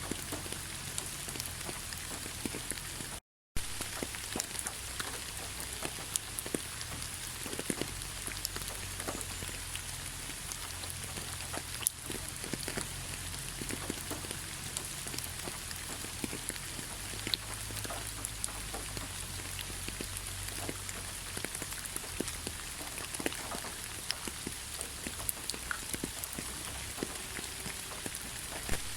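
Heavy rain falling steadily: a dense hiss full of individual drops ticking and splashing, with a low rumble underneath. The sound drops out completely for a split second about three seconds in.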